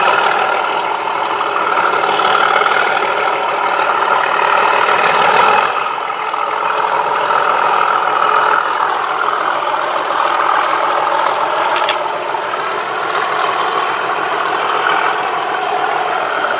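Class 37 diesel locomotive's English Electric V12 engine running steadily, dropping a little in level about six seconds in. A single sharp click about twelve seconds in.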